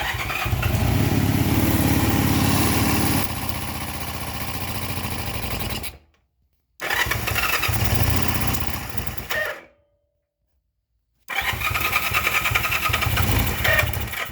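1972 Honda CL175's 174 cc parallel-twin four-stroke engine running on its first start after a top-end rebuild with new rings, in three stretches that each cut off abruptly. In the first stretch it runs louder for about three seconds, then settles lower.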